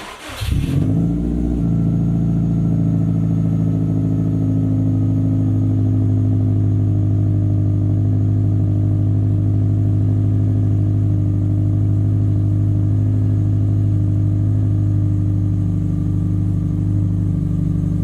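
Subaru Impreza WRX STi's turbocharged flat-four starting from cold through a 3-inch aftermarket exhaust with no dB killer: it catches right away, flares up briefly in the first second or two, then settles into a loud, steady high cold idle.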